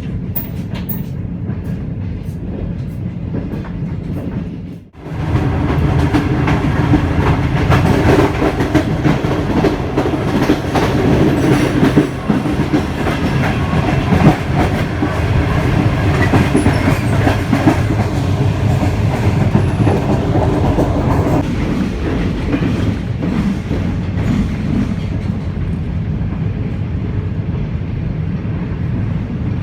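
Passenger train running on the line, its wheels clicking over the rail joints with a steady rumble. The sound dips sharply for a moment about five seconds in, then runs louder.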